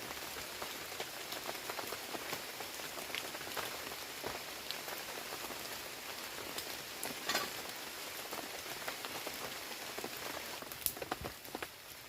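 Heavy rain falling steadily, with many separate drops ticking close by. A brief, higher sound stands out about seven seconds in, and near the end the rain thins a little so single drops stand out.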